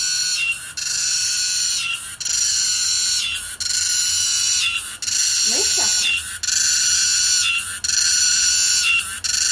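Cicada singing: a loud, high-pitched buzz that swells and dips in a steady rhythm, about one pulse every second and a half.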